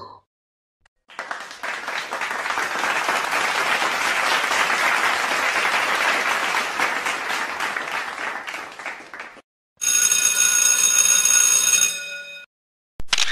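A crowd applauding, swelling and then fading over about eight seconds. Then a bell rings steadily for about two and a half seconds.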